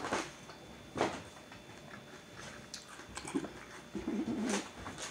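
Someone chewing a mouthful of crunchy cereal, with a few short sharp noises as a cardboard cereal box is handled and set down, and a brief closed-mouth hum of 'mm' about four seconds in.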